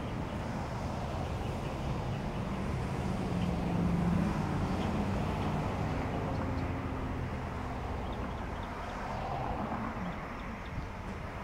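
Steady vehicle noise, with low rumbling pitches that swell in loudness about four seconds in.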